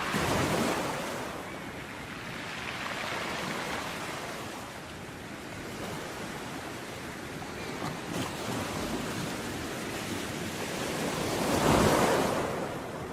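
Ocean surf: waves breaking and washing up the shore in slow surges. The loudest break comes near the end.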